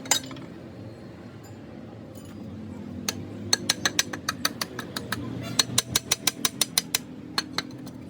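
Quick run of light metallic taps and clinks, about five a second, from about three seconds in to near the end, over a steady low hum.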